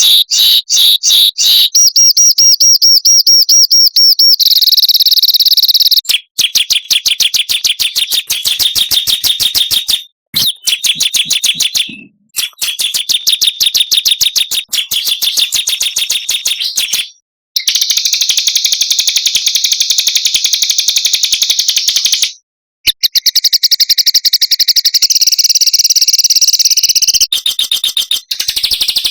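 Edited recording of small songbirds singing fast, high-pitched trills and rapid chattering note runs, with several abrupt cuts where one clip gives way to the next. It is a masteran tutor track, played to caged songbirds so they learn the song.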